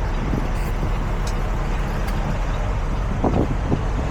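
Peterbilt 379 semi truck's diesel engine running steadily at low revs, a low even rumble with a few faint ticks.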